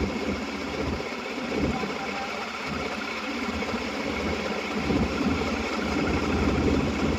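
An engine running steadily, with an uneven low pulsing.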